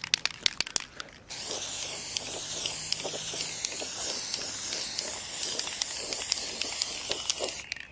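Aerosol can of high-temperature silver paint spraying in one long, steady hiss that starts about a second in and cuts off sharply just before the end, after a few light clicks.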